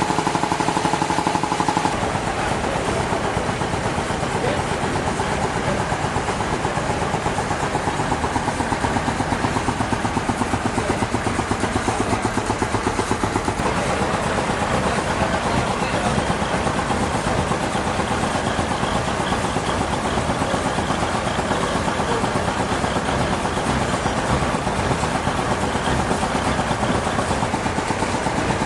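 Sawmill machinery engine running steadily with a fast, even pulse. A steady higher tone that sounds with it stops about two seconds in.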